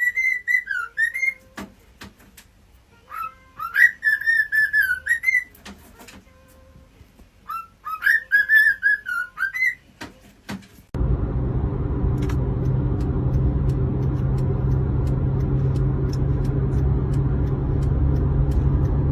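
A parrot whistling three short phrases whose pitch wavers up and down. Then, about eleven seconds in, a steady low hum starts and runs to the end.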